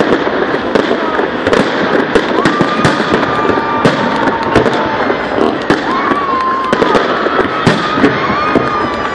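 Fireworks display: a dense, continuous run of bangs and crackles, with a few long high whistles sounding over it from a couple of seconds in.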